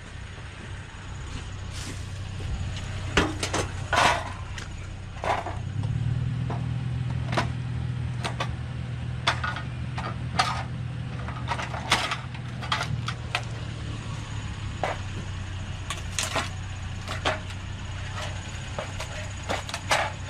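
A vehicle engine running steadily, louder from about six seconds in, with scattered sharp knocks and clatters of scrap being handled.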